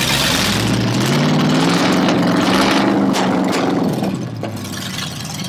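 Ford 302 (5.0 L) small-block V8 running in the Porsche Boxster's engine bay, revved once: the pitch climbs for a couple of seconds, then drops back and settles to a slightly quieter idle near the end.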